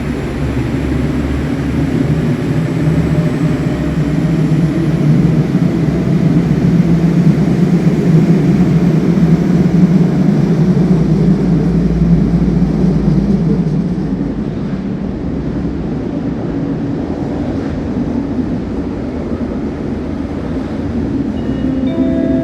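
Intercity train pulling into the platform: a steady low rumble that builds over the first ten seconds or so and eases off about fourteen seconds in.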